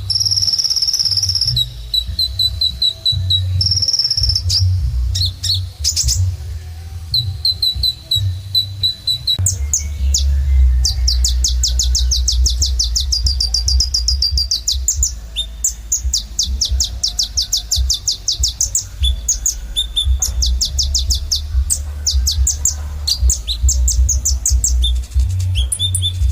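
Sunbird ('kolibri ninja') singing: runs of quick high-pitched chirps that break into long, fast trills, over a steady low hum.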